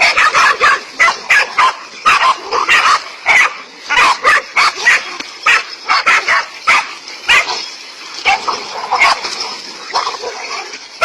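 A dog barking rapidly and repeatedly, several sharp barks a second, easing off briefly about eight seconds in before picking up again.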